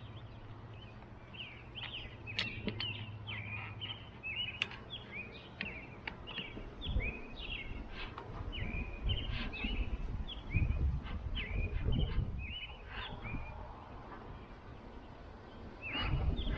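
Small songbirds chirping rapidly and continuously in short high chirps. Low rumbling noise comes and goes through the second half.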